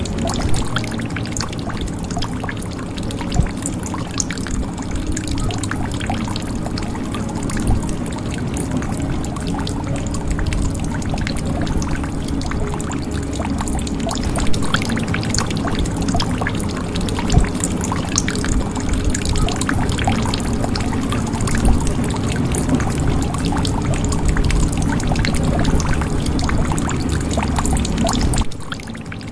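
Water pouring and trickling into a jug, a steady burbling run of water with many small drips and splashes. It drops noticeably in level about a second before the end.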